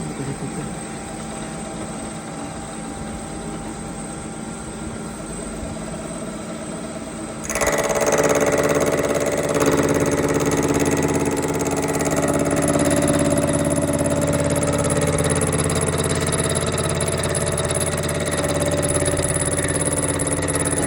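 A machine tool hums steadily, then about seven seconds in it starts cutting a bearing-lock groove into a connecting rod. From there a much louder, steady whining machining noise holds on.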